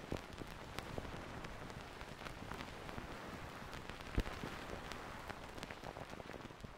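Rain falling: a steady patter with scattered sharper drops, beginning to fade out near the end.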